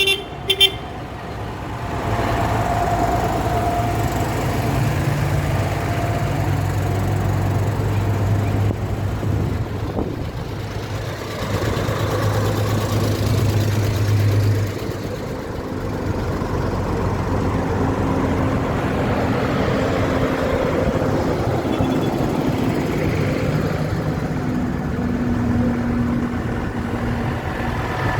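Tractor engines running at low speed, with their low hum rising and falling slowly. A short horn toot sounds at the very start.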